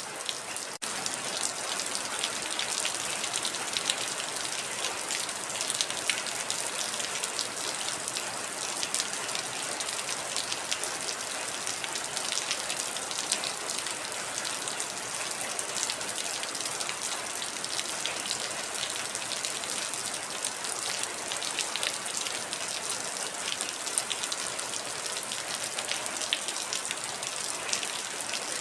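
Heavy rain falling steadily, a dense even hiss with many individual drops ticking through it. It drops out for a split second just under a second in.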